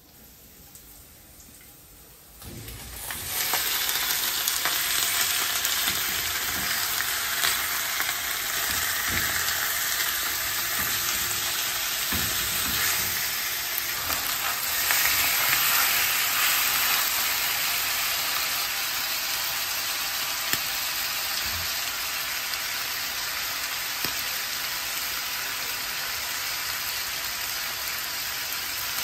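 Chicken pieces sizzling as they fry in oil in a nonstick pan, the sizzle starting suddenly about three seconds in and then running loud and steady, with a few knocks of the spatula as the pieces are stirred.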